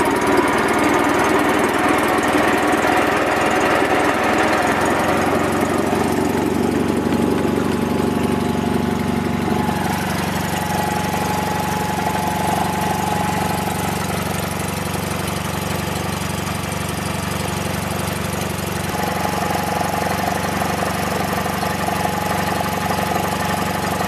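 The Onan opposed-twin engine of a Toro Wheel Horse 416H lawn tractor running steadily. A thin steady high whine joins it about six seconds in.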